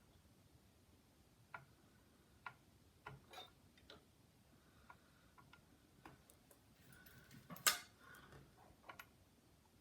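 Scattered small clicks and taps of tools being handled on a motherboard during soldering, irregular and sparse, with one louder click about three-quarters of the way through.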